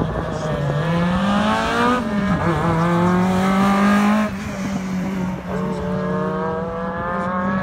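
A car's engine under hard acceleration on an autocross course. Its pitch climbs, drops sharply about two seconds in and again near the middle, then climbs steadily again.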